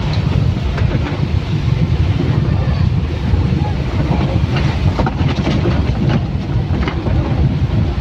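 Vehicle cabin rumble with clattering and knocks while driving over a rough road.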